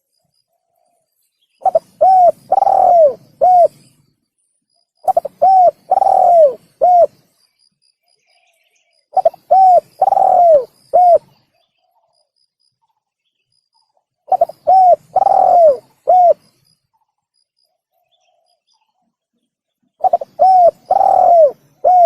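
Spotted dove (tekukur) cooing: five phrases, each a quick run of short arching coos with one longer, louder coo in the middle, repeated every four to six seconds. This is a recorded lure call used to draw wild doves in for trapping or hunting.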